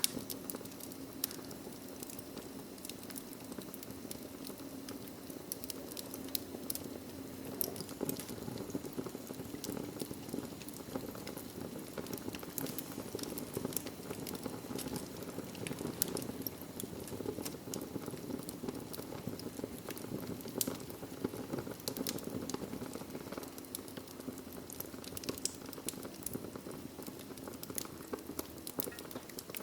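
Wood fire burning in a fireplace: a steady low rush of flames with many sharp, irregular crackles and pops from the burning logs.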